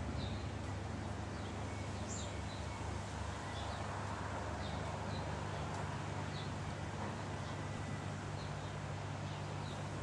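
Short, high bird chirps, scattered about once a second, over a steady low hum and background hiss.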